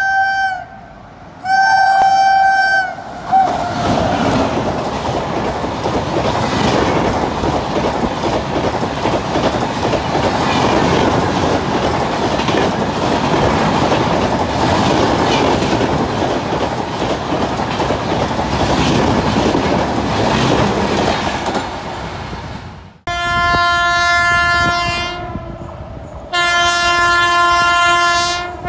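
Train horn blown twice, then a passenger express passing through a station at speed, the noise of its wheels and coaches lasting about twenty seconds. After a sudden cut, an approaching electric locomotive's horn blows twice.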